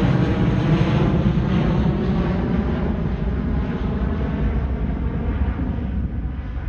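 Jet engine noise of an Airbus A321 climbing away after takeoff, a steady rumble that slowly fades as the airliner moves off, the higher part of the sound dying away first.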